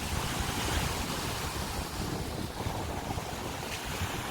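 Rough sea surf breaking and washing ashore, with wind buffeting the microphone in low rumbles.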